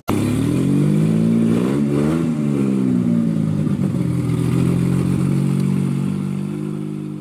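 Car engine running, revving up once about two seconds in and dropping back, then holding steady and fading out near the end.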